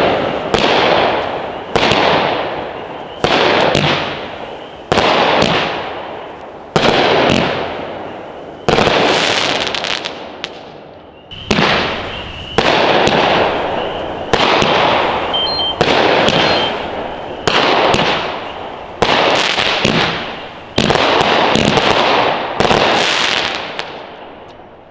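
Red Apple Ghost Supernatural firework cakes firing: a loud shot every one and a half to two seconds, each dying away in a long rolling echo.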